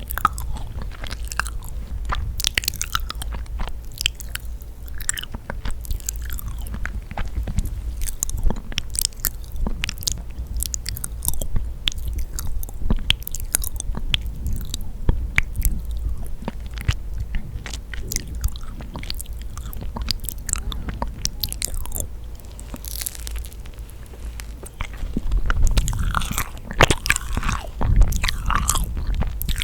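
Close-miked chewing and biting of yakgwa, a sticky, honey-soaked Korean fried cookie, with many quick wet mouth clicks. The chewing grows louder about 25 seconds in.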